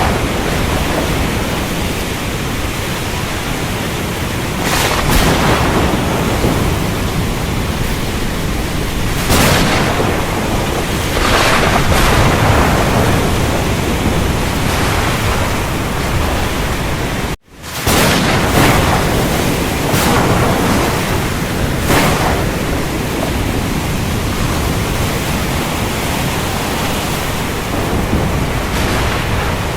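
Thunderstorm: heavy rain hissing steadily under low rumbling thunder, with several brief louder swells. The sound drops out for an instant a little past halfway, then resumes.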